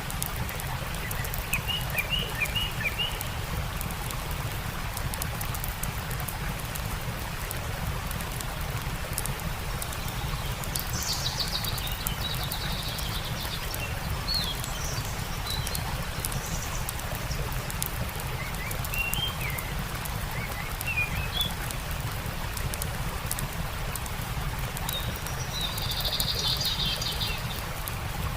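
Songbirds chirping and singing in short scattered phrases, with a brief trill near the end, over the steady rush of a stream; faint crackles of a campfire tick through.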